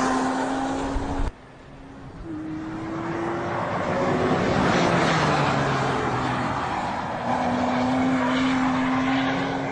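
Porsche Cayman S's 3.4-litre flat-six engine running at speed as the car is driven. The sound drops away suddenly about a second in, then builds again, and the engine note rises and falls in pitch before a longer steady pull near the end.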